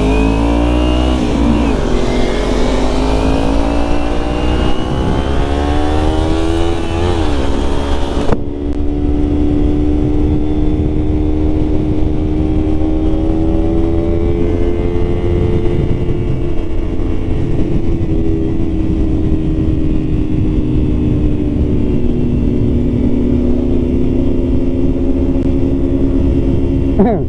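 Motorcycle engine accelerating, its pitch rising for several seconds, then dropping at a gear change about seven seconds in. It then runs at a nearly steady cruise, with a constant low rumble of wind on the microphone.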